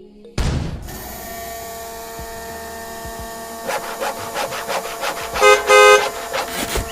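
A vehicle horn honking twice in short blasts, over a steady hum and a run of light clicks.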